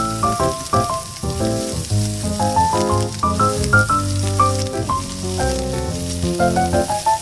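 Strips of fish cake and ham sizzling as they are lightly stir-fried in a frying pan. Background music plays over it, a quick melody of short notes with a bass line.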